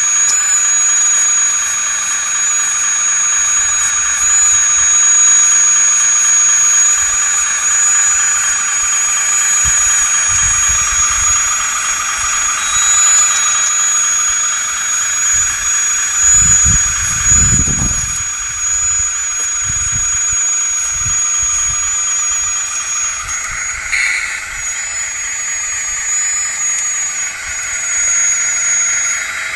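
Hydraulic pump and motor of a 1/16 scale RC hydraulic wheeled excavator running with a steady high whine, its pitch dipping slightly now and then as the load changes. A low rumble swells briefly about halfway through.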